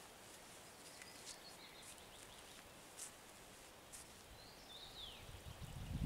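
Near silence: faint background hiss with distant bird calls, one of them a falling call near the end, and a few faint ticks.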